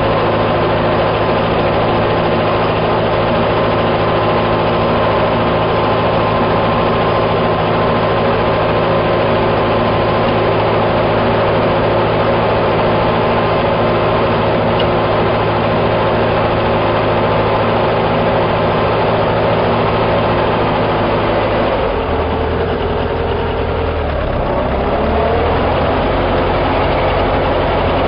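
A T-40AM tractor's air-cooled diesel engine running steadily. About three-quarters of the way through, the engine note drops, then climbs back up and settles a few seconds later.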